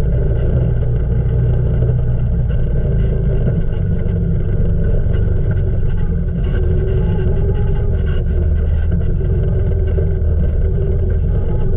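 Freshly rebuilt Can-Am Outlander 800 ATV's Rotax V-twin engine running steadily while riding, with small shifts in pitch as the throttle varies.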